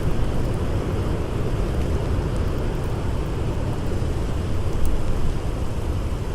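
Howling blizzard wind blowing steadily as a deep, low rumble, with a few faint crackles of a campfire, one a little louder about five seconds in.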